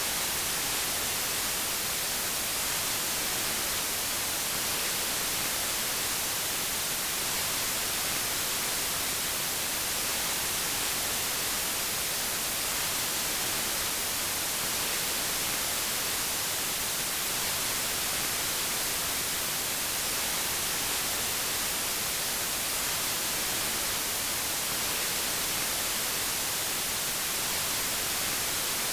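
Steady, unchanging white noise: an even hiss spread across all pitches, brightest in the high end.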